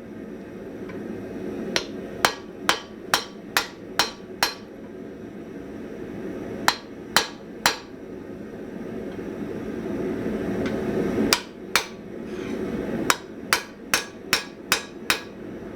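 Blacksmith's hammer forging hot steel on an anvil: groups of ringing blows about two a second, with pauses between the groups, over a steady low noise.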